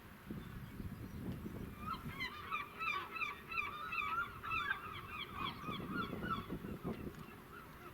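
A bird calling: a rapid run of short, repeated calls, several a second, beginning about two seconds in and lasting some four seconds, over a low background rumble.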